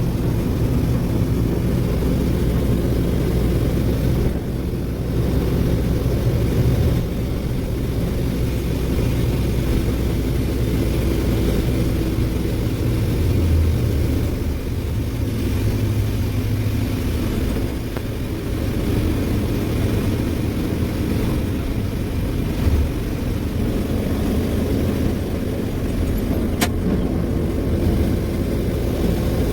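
Ashok Leyland 2528 tipper truck's diesel engine running steadily under way, a low drone that swells and eases slightly. One sharp click comes near the end.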